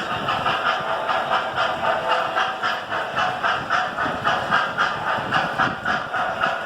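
Steam chuffing from a running model steam locomotive's onboard sound system: an even, rapid chuff, about four to five a second.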